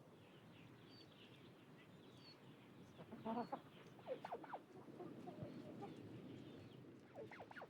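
Domestic chickens clucking faintly, in short groups of calls about three seconds in, again about a second later, and near the end, with a few tiny high chirps among them.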